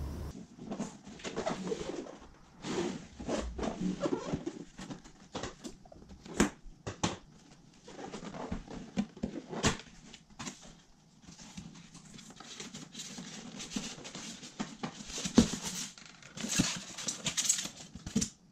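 Packaging and parts being handled: irregular rustling with a scatter of sharp clicks and knocks.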